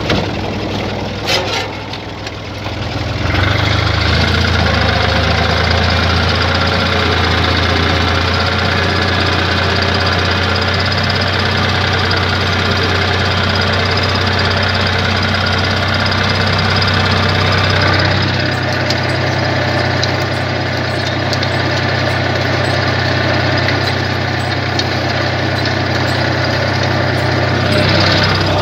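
Universal 453 tractor's three-cylinder diesel engine pulling a disc harrow under load. It runs quieter at first, then revs up about three seconds in and holds a steady heavy drone.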